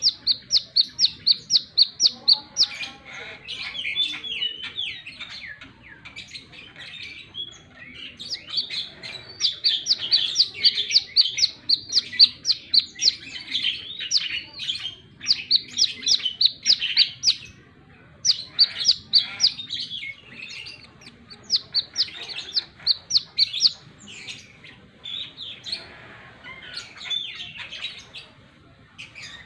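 Brown-throated sunbird singing: rapid trains of high, sharp repeated notes, each run lasting a second or two, broken by short pauses and lower twittering phrases.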